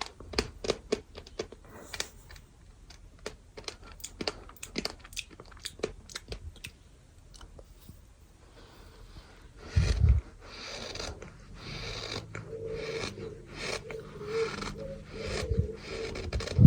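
Chunks of dry and damp bird sand crunching: a run of crisp, gritty crunches, with a heavier thump about ten seconds in and denser crunching after it.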